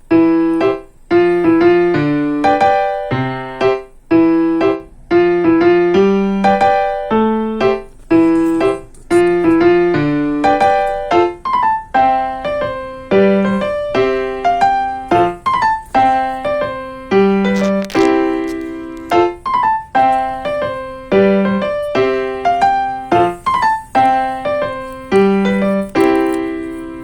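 Background music: a piano melody of struck, decaying notes at a moderate steady pace, stopping at the end.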